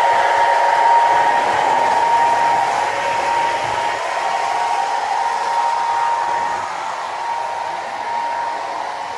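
Steady whirring of a small electric motor or fan, with a constant high hum over an even rush of air, easing off slightly toward the end.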